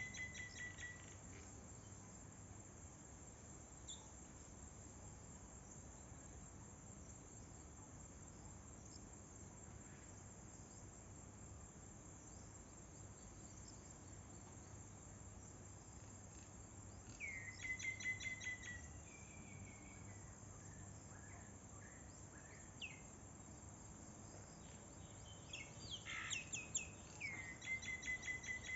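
A bird calling outdoors in three short runs of quick, chattering notes, at the start, around the middle and near the end, over a faint steady background hiss.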